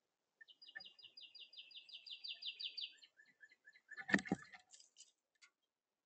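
A small bird singing a fast trill of repeated high notes, about seven a second, growing louder, followed by a few short chirps. Two sharp knocks just after four seconds are the loudest sounds.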